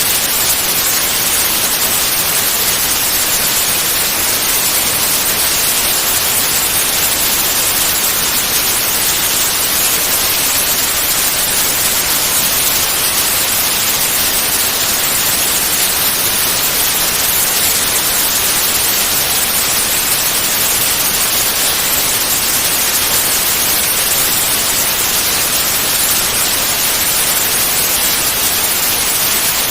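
Steady, continuous white noise: an even, unchanging hiss, strongest in the high frequencies.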